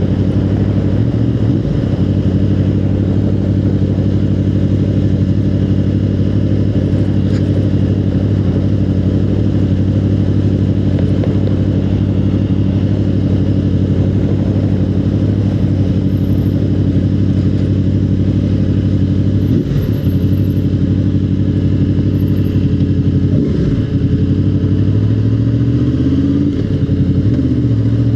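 Motorcycle engine running steadily under way, with brief dips around 20 and 24 seconds in, then rising in pitch near the end as it accelerates.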